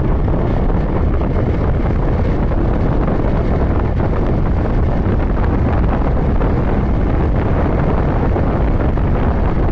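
Motorcycle riding at steady road speed: loud, unbroken wind rush on the microphone with the engine running underneath.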